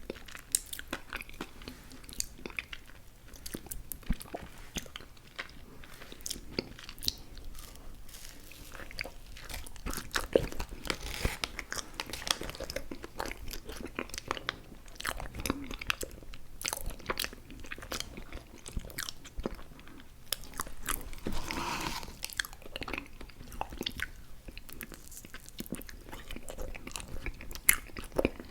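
Close-miked mouth chewing chewy fruit candy (Airheads Bites and Tootsie Fruit Chews), a steady run of wet smacks and sharp sticky clicks with occasional bites, a little louder about a third of the way in and again about three quarters through.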